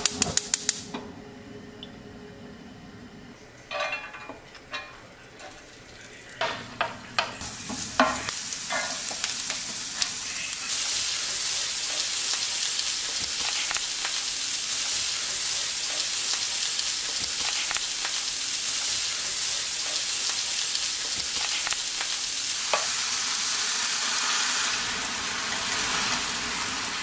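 Fish cake and vegetables stir-frying in a hot frying pan. A series of sharp taps and clinks comes in the first eight seconds, then a steady sizzle builds from about seven seconds in and holds, easing slightly near the end.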